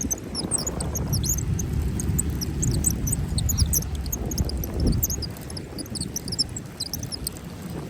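Steady low rumble of wind and surf, with many quick high chirps throughout.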